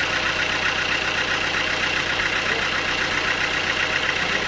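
Sawmill machinery running steadily: the saw and its engine make an even, unbroken mechanical noise.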